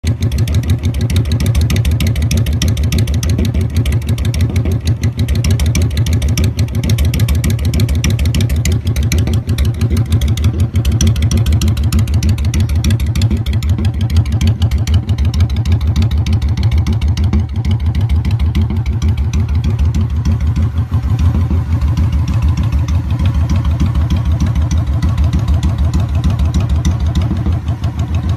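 Honda Shadow 750 V-twin running steadily through a Cobra Street Rod aftermarket exhaust, an even, deep pulsing exhaust note.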